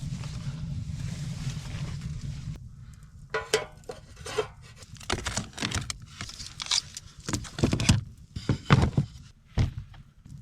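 Steady rushing wind noise for about two and a half seconds. It then gives way to a quieter run of irregular clicks, knocks and clinks of camp cookware and gear being handled.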